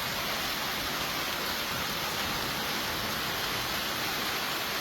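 Steady rushing noise of water, even in level throughout, with no breaks or single impacts.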